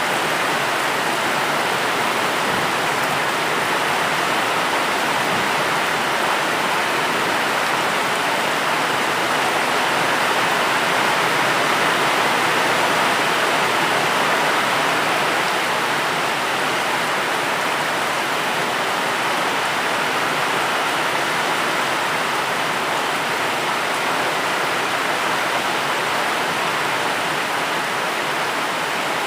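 Steady heavy rain, an even hiss with no single drops or thunder standing out.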